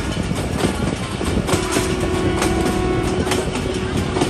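Passenger train running on the rails, a steady rumble with scattered sharp wheel clicks. From about a second in, a steady held tone sounds over it and stops near the end.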